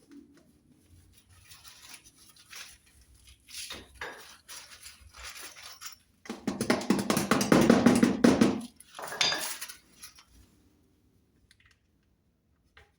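Metal clattering and scraping as sheet-metal parts are handled, with scattered light knocks at first and a loud rattling stretch of about three seconds in the middle, followed by a shorter burst.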